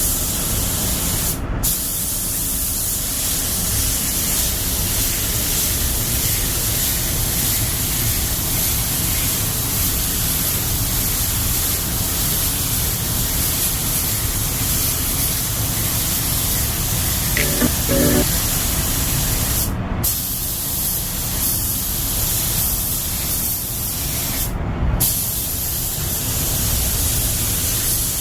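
Paint spray gun hissing steadily as a car body is sprayed, with three very brief dips in the hiss.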